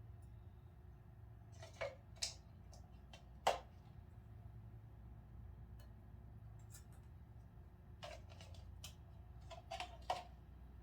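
A few scattered light clicks and taps from handling a syringe at the fill port of an engine hoist's hydraulic cylinder while topping it up with brake fluid, the sharpest about three and a half seconds in, over a low steady hum.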